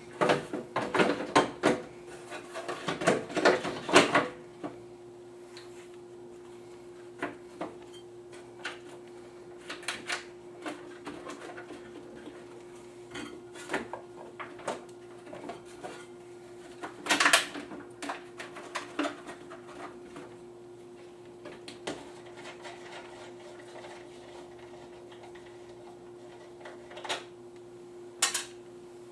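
Parts of a General Aire 1042 humidifier knocking and clattering as they are handled and fitted back together, with a busy run of clatters in the first four seconds and a sharp rattle about seventeen seconds in. A steady low hum runs underneath.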